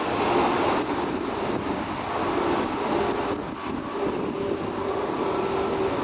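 Jet engines of an Asiana Airbus A380 running, a steady wash of engine noise with a held humming tone.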